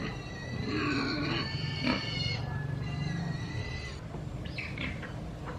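Farm animal calls: a long pitched call with several tones in the first two seconds, a second shorter call about three seconds in, and brief chirps near the end.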